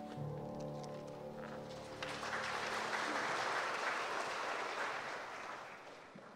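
The last sustained chord of a choir and accompaniment dies away. About two seconds in, an audience breaks into applause, which fades out near the end.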